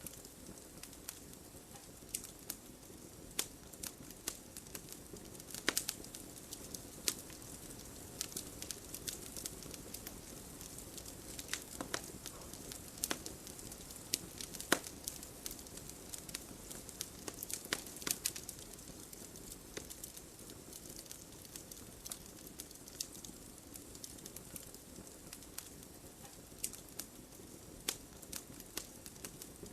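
Wood campfire burning, with irregular sharp crackles and pops over a soft steady rush of flame.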